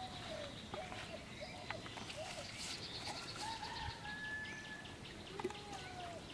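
Birds calling: a run of short chirping calls, a rapid high trill around the middle, and one long even whistle a little later.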